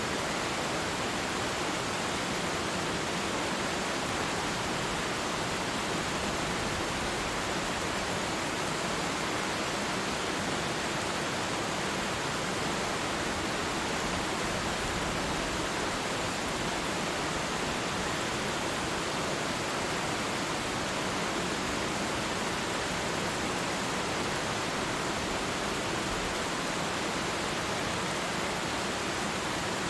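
Steady rush of falling water from a waterfall, an even unbroken hiss with no change in level.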